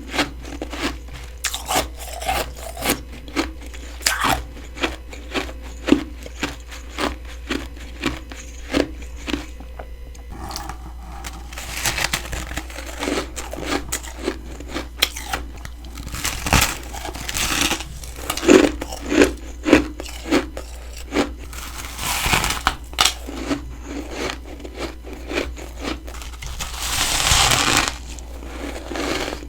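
Close-miked crunching of humidifier-made freezer frost being bitten and chewed, with steady crunches about twice a second. In the second half, longer, louder bites come roughly every five seconds.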